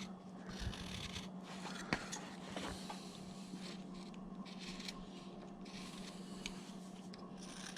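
Carving knife shaving wood in short, faint scraping strokes while rounding a carved figure's arm, with a few light clicks. A steady low hum runs underneath.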